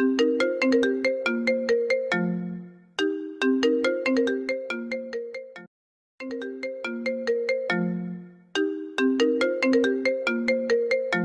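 Apple iPhone ringtone playing: a repeating melody of quick, ringing notes over a lower note. It cuts out for about half a second around six seconds in, then the phrase starts over.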